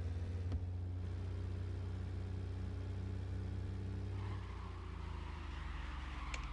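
Fuel-injected VAZ 2107 car engine running steadily at low revs, with a short click about half a second in. About four seconds in the engine note shifts and a hiss rises over it, with another click near the end.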